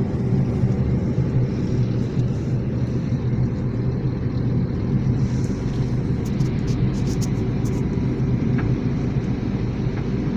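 A moving road vehicle's engine and road noise: a steady low rumble with an even engine hum.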